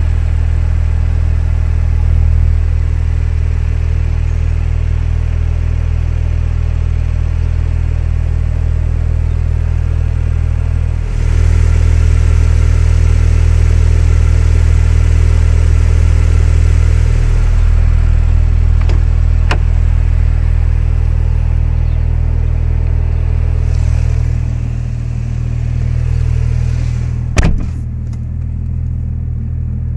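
Porsche 911 Turbo S's twin-turbocharged 3.8-litre flat-six idling steadily. It gets louder and fuller about eleven seconds in for several seconds, then settles back. A single sharp thump comes near the end, after which the sound is duller.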